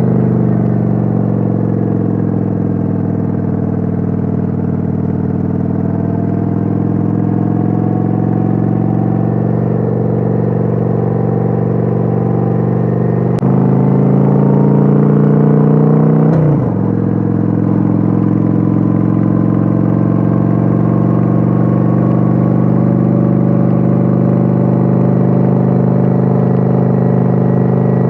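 Kawasaki Vulcan 900's V-twin engine running steadily at cruising speed, heard from on board. About halfway through it gets louder and rises in pitch for about three seconds, then drops back abruptly and settles into a steady run again.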